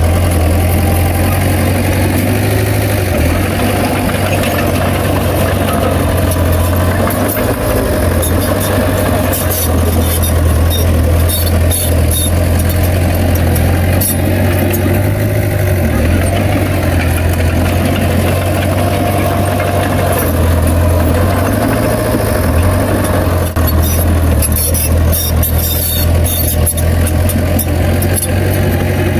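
Heavy diesel engine of a bulldozer running steadily, with scattered sharp clicks and squeaks over it.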